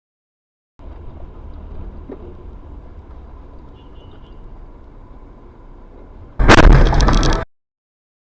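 Low steady road and engine rumble from a moving vehicle. About six and a half seconds in comes a sudden, very loud car collision with breaking and shattering, lasting about a second before the sound cuts off abruptly.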